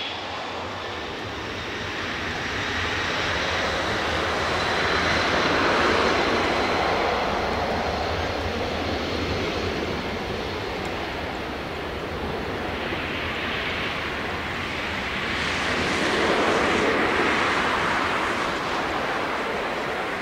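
Boeing 777-300ER's twin GE90 turbofans at takeoff power: a loud, steady jet roar that swells twice, with a faint high whine over it.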